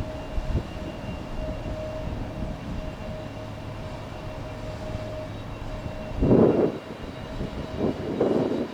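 Jet engines of a Boeing 737 MAX 8 airliner arriving to land: a steady low rumble with a faint steady whine, swelling into louder surges of rumble about six seconds in and again near the end.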